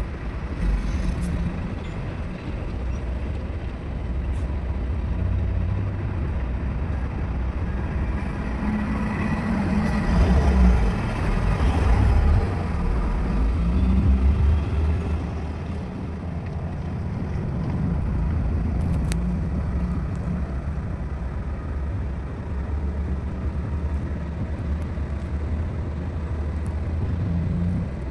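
Diesel engines of heavy earthmoving machinery running steadily, with a low rumble that grows louder about ten to fourteen seconds in.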